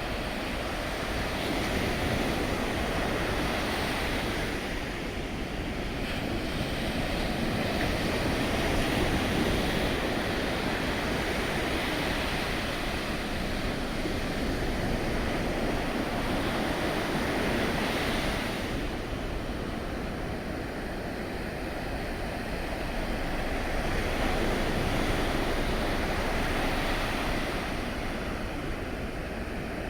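Sea waves and wind: a steady rushing that swells and eases over several seconds, with wind on the microphone.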